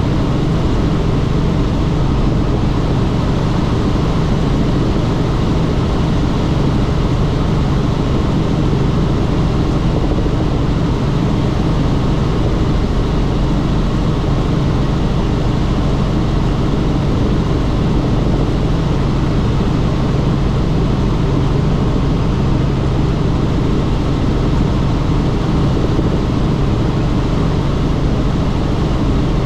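Helicopter in flight, its engine and rotor running steadily and loudly.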